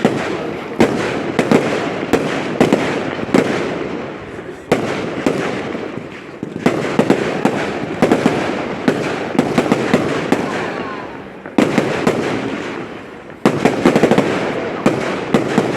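Fireworks display: aerial shells going off in quick succession, many sharp bangs each followed by a crackling tail that dies away. Several clusters of louder bursts set off fresh waves of crackle.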